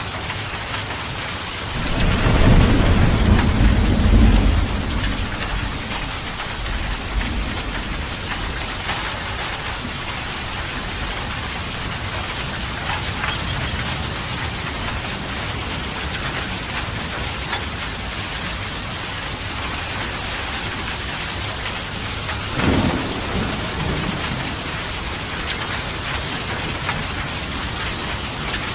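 Steady heavy rain, with a loud thunder rumble about two seconds in that lasts a few seconds, and a shorter, fainter thunderclap near the end.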